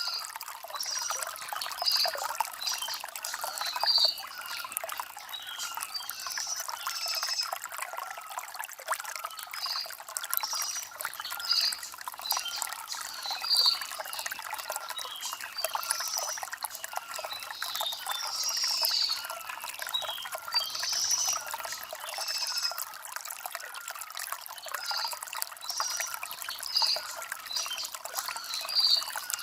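Shallow stream water trickling and bubbling over stones, with birds chirping.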